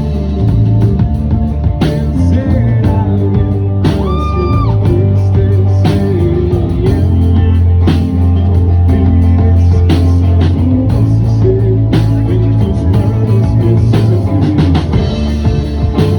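Rock band playing live, with drums, heavy bass and guitar, and a voice singing a held note about four seconds in.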